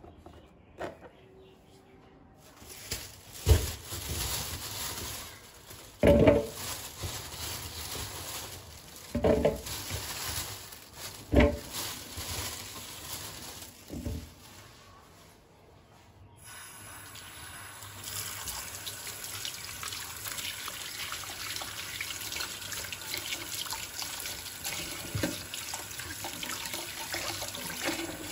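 Kitchen tap running into a sink. A few sharp knocks and clatters come in the first half, and the water runs steadily through the second half.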